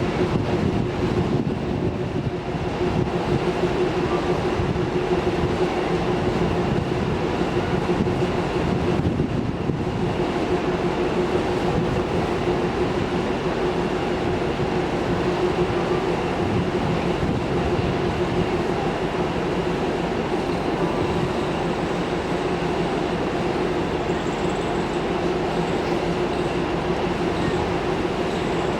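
Express train hauled by a WDP4D diesel-electric locomotive passing at speed without stopping: a steady, continuous rumble of wheels on the rails with a constant hum.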